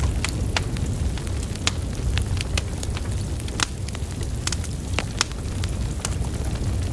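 Wood fire burning: burning logs crackling and popping at irregular intervals over a steady low rumble of flame.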